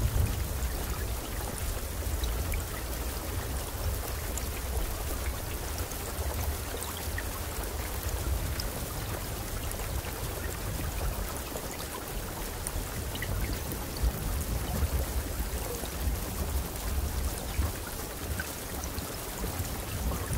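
Steady rain falling, with many single drops ticking over an even hiss and a low rumble underneath.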